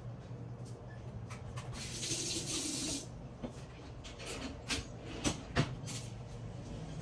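Kitchen handling sounds over a low steady hum: a hiss lasting about a second, then a few sharp knocks and clicks.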